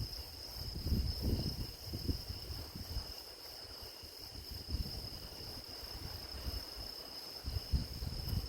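Grass insects such as crickets chirring steadily on one high pitch. An irregular low rumble comes and goes beneath them, strongest about a second in and again near the end.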